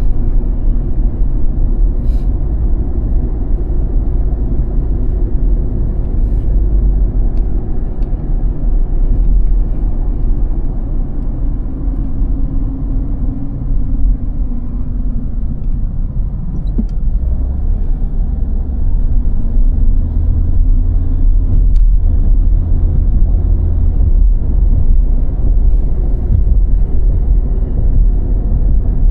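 Car driving on snowy roads: a steady low rumble of tyres and engine, with a faint hum rising in the middle and a few light clicks.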